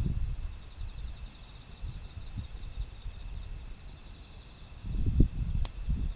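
Wind gusting against the microphone in low rumbles, building near the end, over a steady background of crickets chirping. One sharp snap comes shortly before the end.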